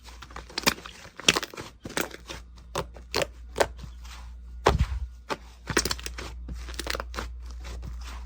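Slime being squeezed and pressed by hand, giving irregular sharp crackles and pops, a few a second, over a faint low hum.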